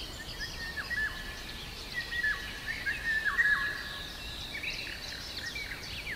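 Several birds chirping: many short calls, some holding a note and then dropping sharply, others higher and quicker, over a faint steady outdoor background noise.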